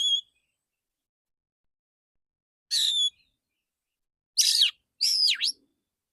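Male oriental magpie-robin singing in short, loud, clear whistled phrases: four separate bursts, the last two close together and sweeping sharply down in pitch.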